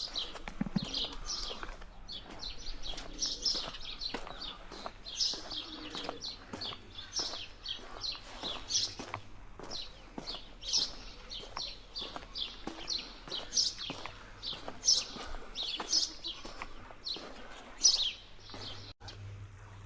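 Small birds chirping busily: many short, high chirps, several a second, with a faint steady low hum underneath.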